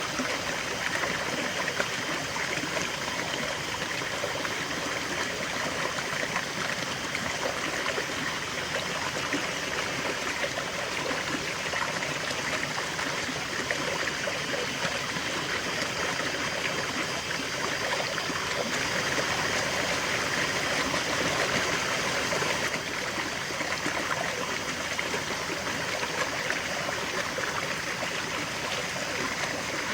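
River water flowing steadily, a continuous rushing and babbling of current over stones.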